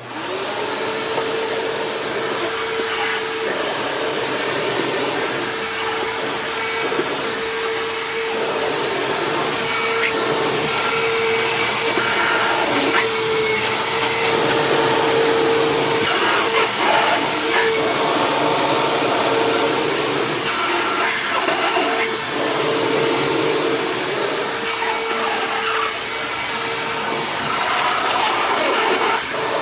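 Hoover WindTunnel Self-Propelled Ultra upright vacuum switched on and running steadily with a steady whine, sucking up shredded paper from carpet, with occasional brief rattles.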